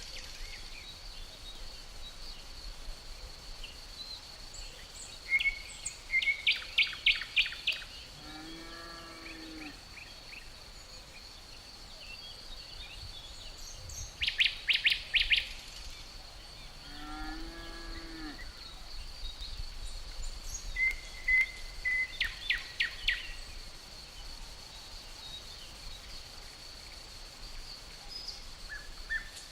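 Forest ambience: crickets trill steadily and high underneath, and a songbird sings three short phrases of quick repeated notes. Twice a low, drawn-out animal call sounds between the phrases.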